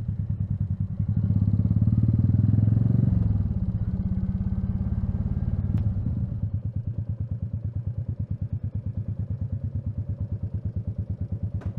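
Single-cylinder motorcycle engine running, louder for the first few seconds, then settling into a steady, slow pulsing beat, with a light click about six seconds in.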